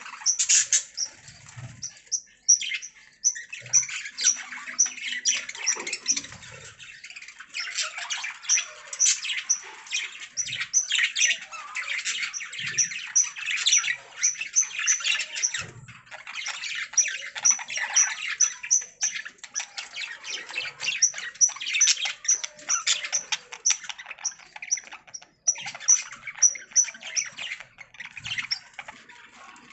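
Budgerigars chattering and warbling, with rows of quick, sharp high chirps over a busy stream of scratchy twittering and a few squawks.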